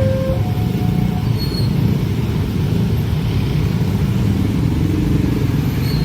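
Steady, loud low vehicle rumble, with a short faint steady tone early on.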